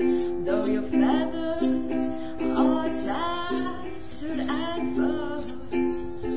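Ukuleles strumming chords with an egg shaker ticking in time, and a voice singing a melody over them from about half a second in until shortly before the end.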